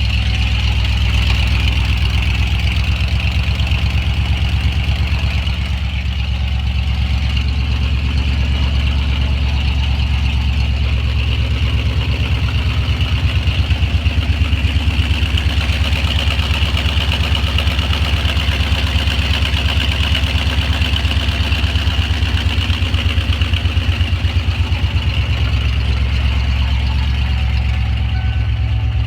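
1995 Ford Bronco's V8 engine idling steadily after a cold start, with an even low pulse.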